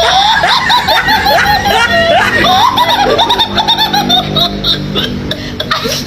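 A person laughing in a fast run of high-pitched 'ha' sounds that drift lower in pitch over about four seconds, over background music.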